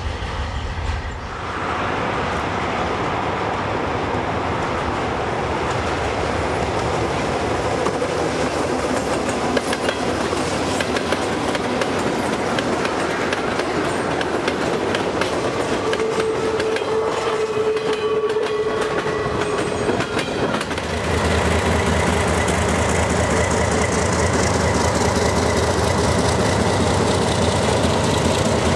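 A freight train rolling past, its wheels clicking over the rail joints, with a steady wheel squeal for a few seconds past the middle. About 21 s in, this gives way to the louder, deep, steady running of Alco diesel road-switcher locomotives passing close by.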